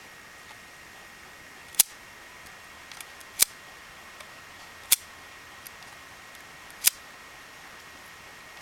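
Four sharp clicks a second or two apart, with a few fainter ticks between, over a faint steady hiss and a thin high steady tone.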